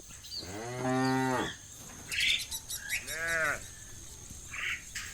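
Cows mooing: a long, low moo about a second in, then a shorter, higher moo about three seconds in.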